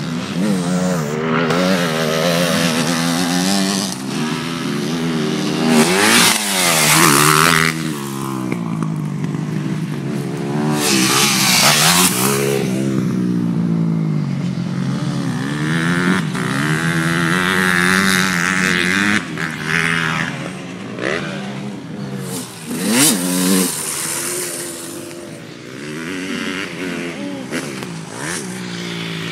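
Motocross dirt bikes running on a track, engines revving up and falling back again and again as they accelerate and shift. It swells louder three times as a bike passes close.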